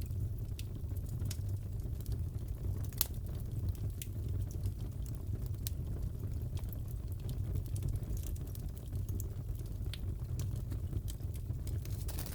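Crackling fireplace: a steady low roar of burning wood with irregular sharp crackles and pops, one louder pop about three seconds in.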